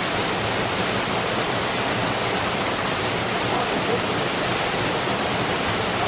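Waterfall plunging at close range: a loud, steady rush of falling water that does not change.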